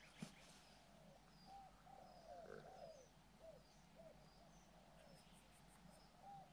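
Faint birdsong: many short calls that rise and fall, mixed with thin high chirps. A single brief click sounds just after the start.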